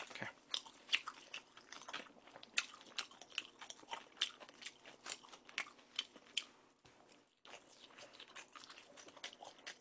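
A person chewing and crunching on crispy fried tangsuyuk pork: irregular crunches and mouth clicks, several a second, with a short break about two-thirds through.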